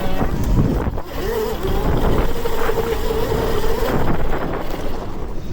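Wind buffeting the microphone while riding a 5500 W electric dirt bike, with the electric motor's whine rising and holding a steady pitch for a few seconds in the middle.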